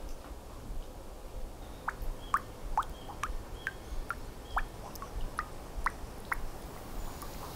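A bird calling outside: a run of short, sharp notes starting about two seconds in, at roughly two to three a second, over a low steady background rumble.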